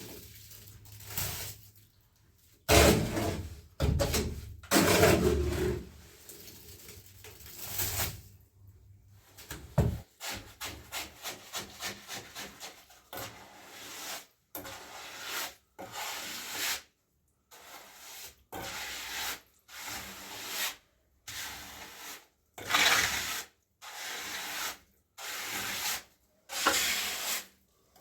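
A hand tool rubbing and scraping over a rough surface in repeated strokes. The first several strokes are longer and louder; from about ten seconds in they come quicker, roughly two a second, with short pauses between them.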